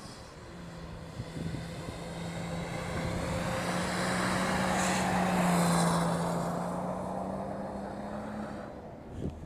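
BMW estate car's engine held at steady high revs while it drifts on snow, getting louder as it passes close about five seconds in and fading as it slides away, with a hiss of spinning tyres on the snow.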